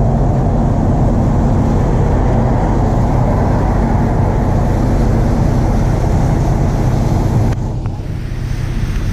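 A motor running steadily with a low hum, against street noise. About seven and a half seconds in the sound abruptly drops somewhat quieter.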